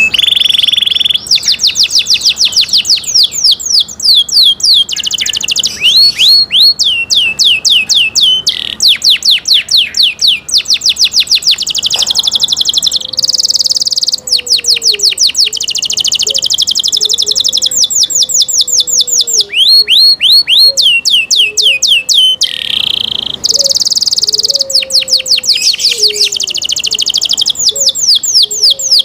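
Canary singing a long, loud, unbroken song of fast rolls: runs of rapidly repeated falling notes that switch to a new note type every second or few, with a couple of short held whistles between them.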